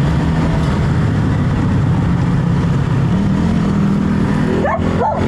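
A motor vehicle's engine running close by, its pitch stepping up about three seconds in. A dog starts barking near the end.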